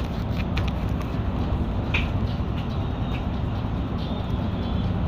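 Volvo B9TL double-decker bus's diesel engine running steadily under way, heard on board, with light clicks and rattles and a short squeak about two seconds in.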